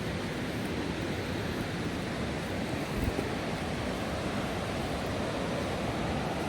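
River rapids rushing steadily, with a brief low thump about three seconds in.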